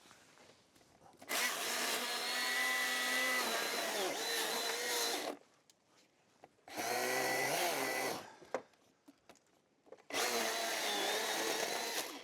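Chainsaw run in three bursts, a long one of about four seconds and two shorter ones, its pitch dipping and wavering as it bogs into the cut, with short pauses between.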